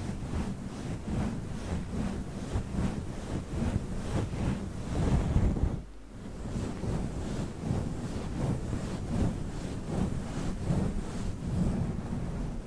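Fluffy microphone windscreen rubbed and brushed over the microphone, giving a rough, wind-like rushing in repeated strokes, a few a second. There is a brief pause about six seconds in.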